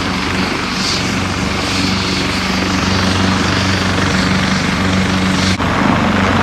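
Helicopter running loud and close, with a steady rapid rotor-blade chop over a low engine hum. The sound breaks for an instant about five and a half seconds in and resumes slightly altered.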